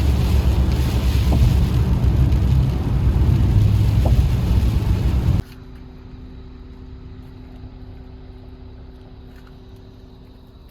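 Loud, low rumbling noise that cuts off abruptly about five seconds in. After it comes a much quieter background with a faint steady low hum.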